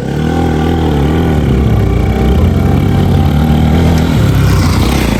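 Motorcycle engine running steadily, with its pitch wavering slightly in the first second, under a hiss of air noise.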